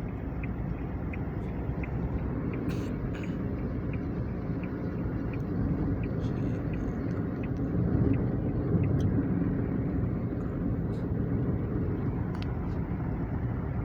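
A road vehicle on the move, with a steady low rumble of engine and road noise. Faint light ticks repeat about twice a second in the first few seconds.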